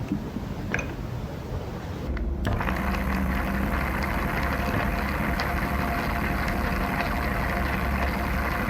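A small motor-driven Lego mechanism running: light plastic clicks and rattles at first, then, from about two and a half seconds in, a steady whir of the motor and plastic gears turning.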